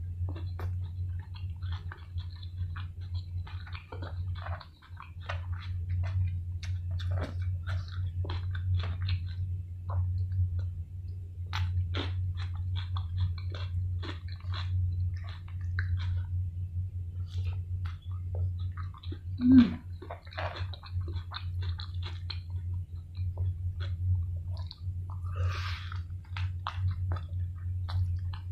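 Close-miked chewing and wet mouth smacks of someone eating fried chicken coated in Samyang hot sauce with rice by hand; the coating has gone soft, so the chewing is moist rather than crunchy. A steady low hum runs underneath, and one brief louder sound comes about two-thirds of the way through.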